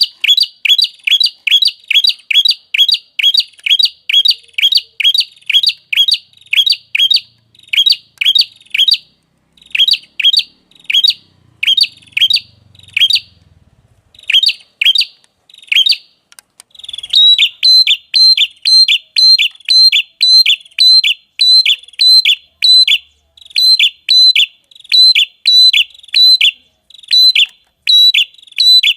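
A small songbird repeating one short, sharp chirp over and over, about two to three a second, in runs broken by brief pauses. Just past halfway the note changes slightly, taking on a higher, brighter top.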